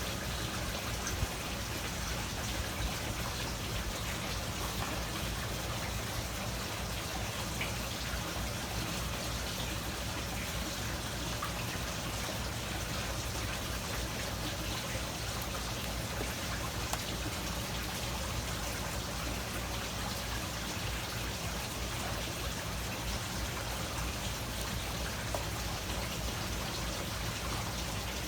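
Steady trickling, splashing water.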